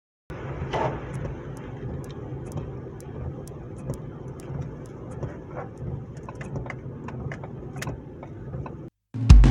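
Car cabin sound while driving: a steady low engine and road hum with scattered sharp ticks. Music with a heavy drum beat cuts in near the end.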